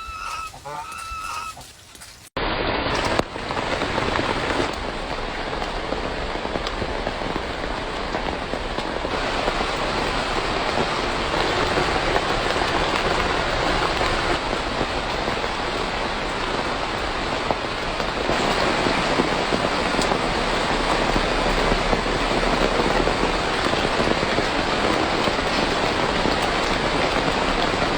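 Steady rain falling, an even hiss that starts suddenly about two seconds in and holds unbroken.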